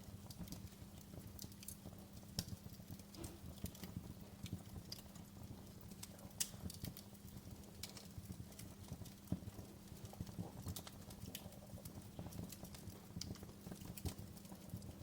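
Wood fire crackling in a fireplace: irregular sharp pops and snaps, a few louder than the rest, over a low rumble of the flames.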